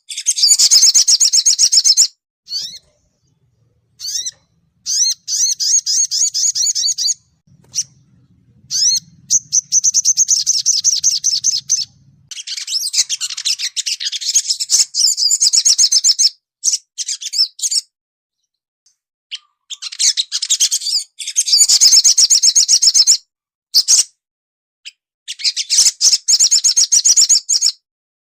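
Sogon songbird singing: rapid high twittering trills of quick repeated 'cuit cuit' notes, in loud bursts a few seconds long with short pauses between, played as a lure recording to prompt a captive sogon to start singing.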